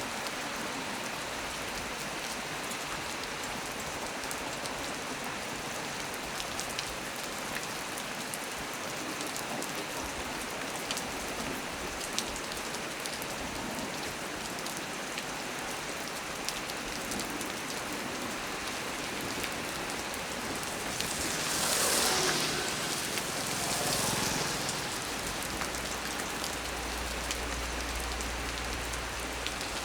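Heavy rain falling steadily on a small tree, a dense hiss with individual drops ticking through it. About two-thirds of the way through, the hiss swells louder twice for a second or two.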